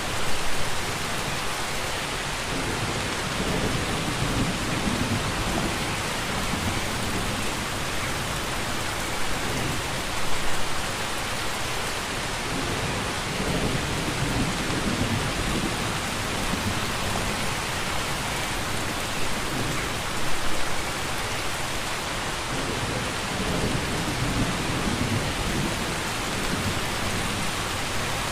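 Steady heavy rain falling, with low rumbles of thunder swelling and fading several times.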